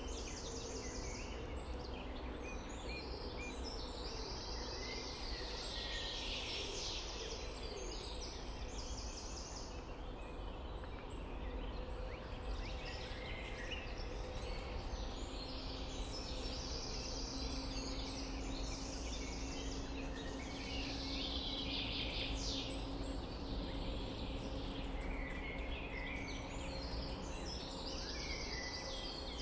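Several songbirds singing in repeated short, high phrases over a steady low rumble of background noise with a faint hum.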